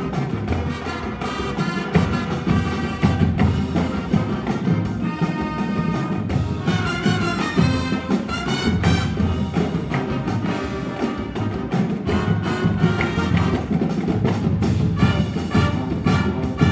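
Marching band playing a jazz arrangement: brass with trumpets and trombones over steady drumline percussion.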